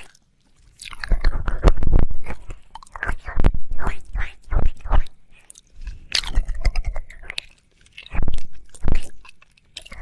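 Close-miked wet mouth sounds of ASMR ear licking: licking, smacking and mouth clicks in bursts of a second or so, with short pauses between.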